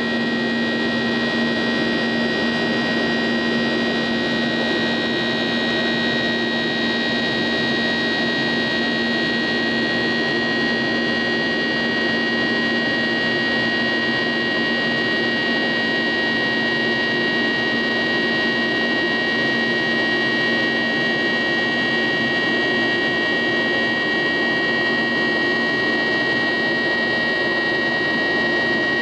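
CFM56-7B1 turbofan engines of a Boeing 737-800 heard from inside the cabin, running at high thrust as a steady roar with a constant high whine over it.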